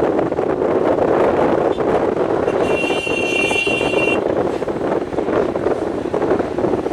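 Excavator engine and hydraulics running steadily under load while digging. About three seconds in, a high steady tone sounds for about a second and a half, then stops.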